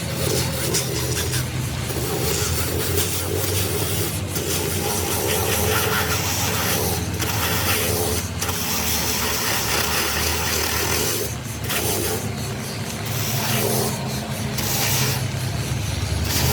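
An engine running steadily, with a rough scraping noise over it that briefly drops out several times.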